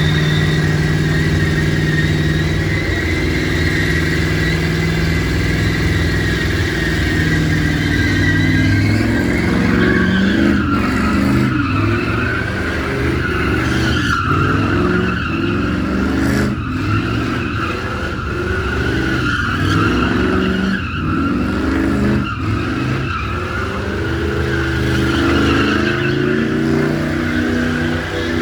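A car engine running at high revs while its tyres spin and squeal steadily; the squeal wavers up and down in pitch from about a third of the way in.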